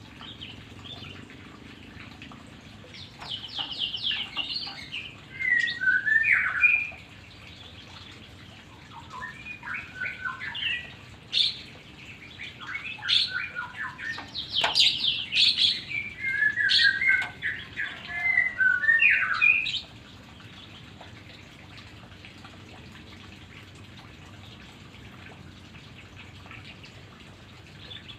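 White-rumped shama (murai batu) singing: varied phrases of clear whistles and rapid trills, starting about three seconds in and stopping about twenty seconds in.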